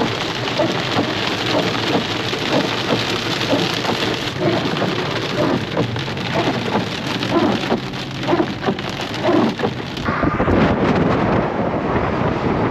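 Rain of a thunderstorm falling hard, with many individual drops striking a surface. About ten seconds in, the sound changes to a duller rush with more low rumble.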